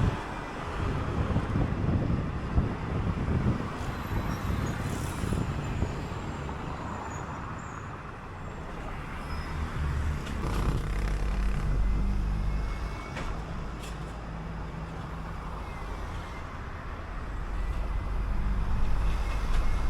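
City bus under way: road and wind noise, then about halfway through the engine's low drone comes up strongly and holds.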